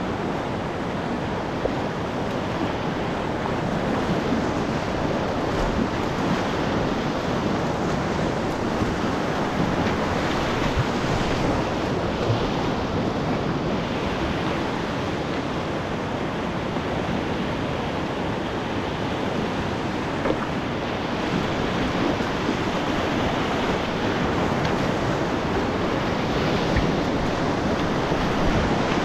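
Whitewater rapids rushing steadily: a dense, even noise of churning river water, with a few faint short knocks.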